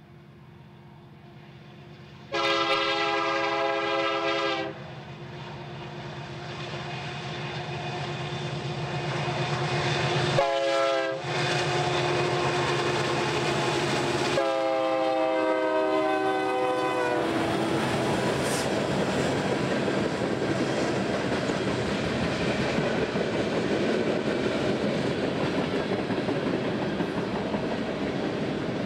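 BNSF freight train's diesel locomotives approaching with engines rumbling and the air horn sounding: a blast of about two seconds, a brief one, then a longer blast that drops slightly in pitch as the locomotives pass. After that the freight cars roll by with steady rail noise and clickety-clack.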